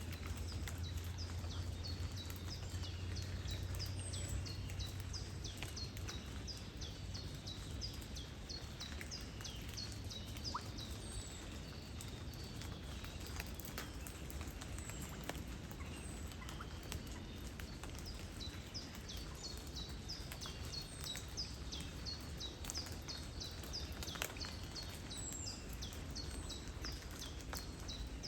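Steady hiss of light rain and flowing river water, with a low wind rumble that eases about ten seconds in. Over it a bird sings long runs of quick, falling chirps, two or three a second.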